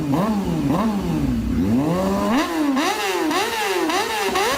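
Motorcycle engine being revved through a stock muffler modified to a 51 mm inlet on a big-elbow header. It first rises and falls slowly once, then from about halfway in is blipped up and down in quick repeated revs, about two a second.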